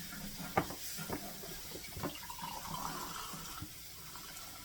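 Chicken broth being poured, a liquid running and filling, with a few sharp clinks of kitchenware.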